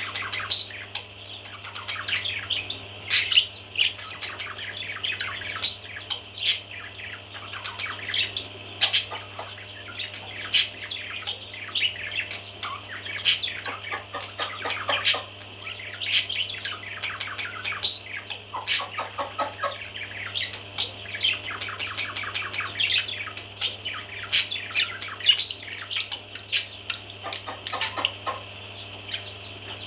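Baby parrots chirping: a continuous chatter of many short, high, overlapping calls, with sharper, louder calls every second or two, over a steady low hum.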